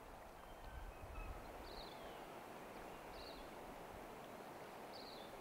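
A bird repeating a short, high, slightly falling call three times, about every second and a half, over a faint steady background hiss.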